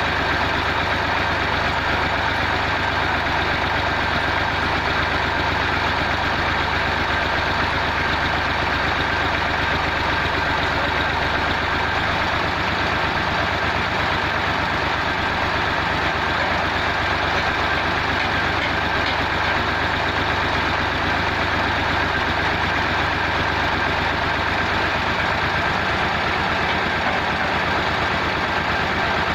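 Massey Ferguson MF 260 tractor's diesel engine running steadily, with no change in speed.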